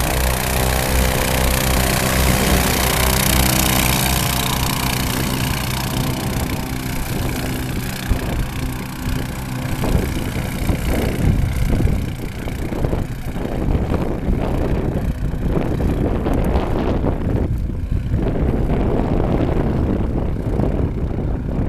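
Twin-engine airboat running steadily. Its engine sound drops away about halfway through, leaving gusty wind buffeting the microphone.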